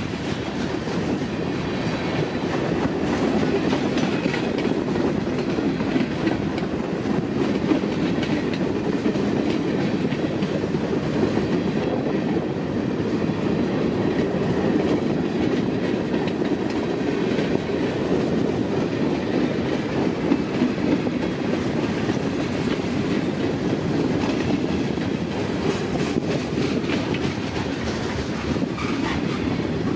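Freight train cars rolling past on the rails: a steady rumble with the wheels clicking over the rail joints, unbroken throughout.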